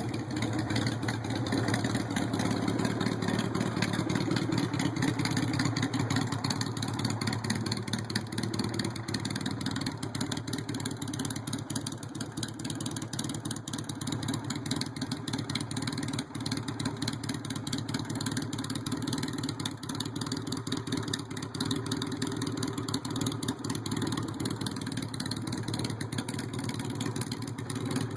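Modified motorcycle engine idling steadily, with a rapid, even exhaust beat.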